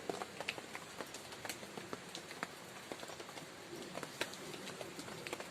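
Raindrops pattering on leaves and surfaces: many scattered, irregular ticks over a soft steady hiss.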